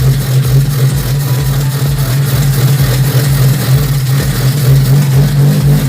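1990 Maruti Suzuki 1000's engine running after a cold start, having sat unstarted for seven to eight years. It gives a steady drone with a regular low pulsing, a couple of beats a second.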